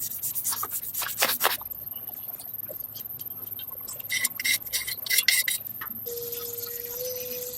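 Two runs of quick rubbing strokes on a hard surface, followed near the end by a faint steady tone.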